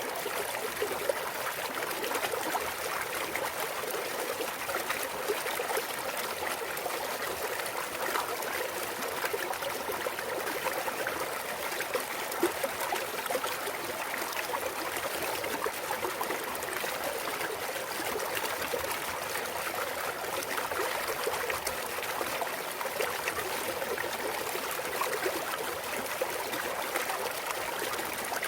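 A clear mountain stream trickling and babbling over rocks, a steady flow of water with small splashes and gurgles.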